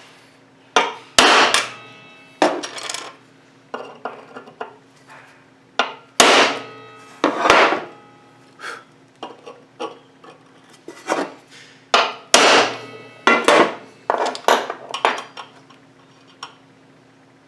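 Hammer striking a center punch on a square metal bar: a long, irregular series of sharp metal-on-metal taps, several with a short ring. The punch marks are the starting point for drilling the screw hole for a carbide cutter insert.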